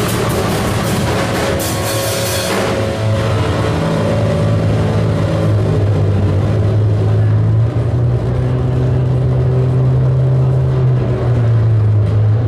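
Harsh noise music: a dense, loud wall of distorted electronic noise. It crackles rapidly for the first couple of seconds, then the crackle thins and a steady low drone takes over.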